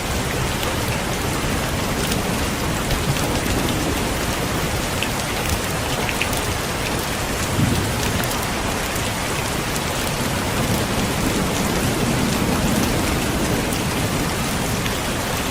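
Heavy rain falling steadily, a dense hiss with many single drops ticking through it. A low rumble of distant thunder swells about halfway through and again later.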